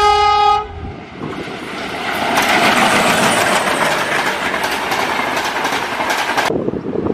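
A diesel locomotive's air horn ends its blast about half a second in. Then the loud rumble and wheel clatter of a passing express train build up and cut off abruptly near the end.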